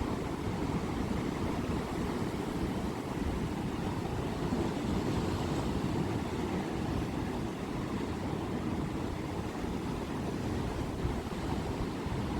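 Sea waves washing ashore in a steady, deep rush of surf.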